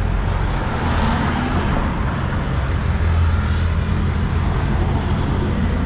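Road traffic noise: motor vehicles running past with a steady low engine rumble and tyre hiss.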